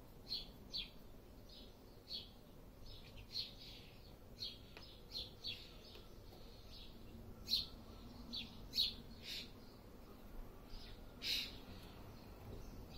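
Small birds chirping: short, high calls scattered irregularly, with a few louder ones around the middle and a little before the end.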